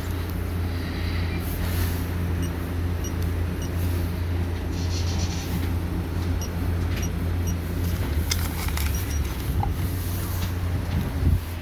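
Christ Genius Vitesse automatic car wash running: a steady low hum under a broad hiss, with scattered small ticks and a brief louder burst of noise near the end.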